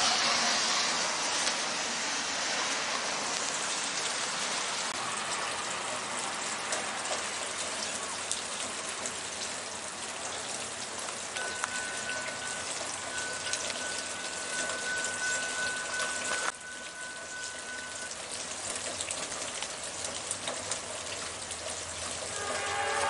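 Steady rain hiss. Near the end, a train's horn starts to sound as the train approaches.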